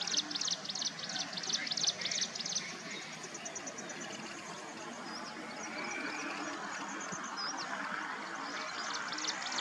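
Yellow-eyed babbler calling: a fast chattering series of short, high notes, about four to five a second, that fades after a couple of seconds into a fainter rapid ticking with a few short whistles, then picks up again near the end.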